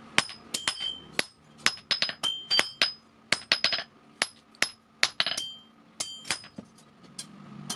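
Hammer blows on steel at an anvil while forging an old vehicle axle, struck irregularly about two to three times a second, each blow ringing high and metallic.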